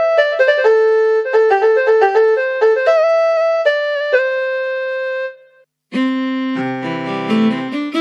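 Yamaha PSR-SX series arranger keyboard playing a voice demonstration: a single-line melody of sustained notes that ends a little past five seconds. After a brief gap a different voice starts, fuller and lower, with several notes sounding together.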